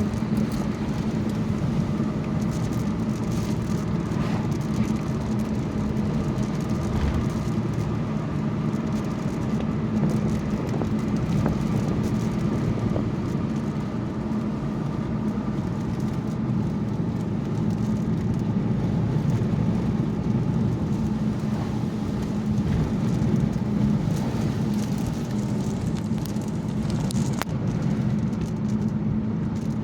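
Steady engine and road noise of a car being driven, heard from inside the cabin, with a few faint scattered taps as the first raindrops of a thunderstorm start to hit.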